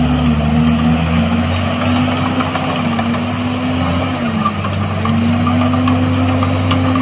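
Diesel engine of heavy earthmoving machinery running steadily, its pitch sagging about four seconds in and climbing back.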